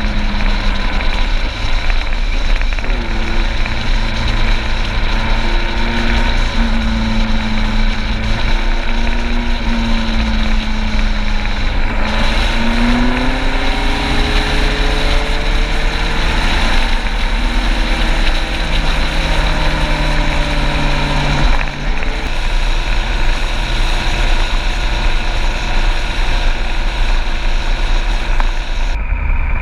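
Motorcycle engine running on the move, its note rising and falling with the throttle, over a steady rush of noise.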